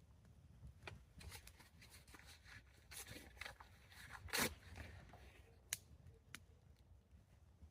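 Wood campfire crackling, with scattered irregular pops and snaps over a low steady rumble; the loudest snap comes a bit over four seconds in.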